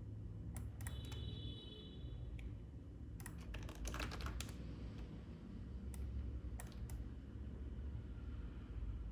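Scattered clicks of a computer keyboard and mouse, with a quick run of keystrokes about three to four seconds in, over a steady low hum.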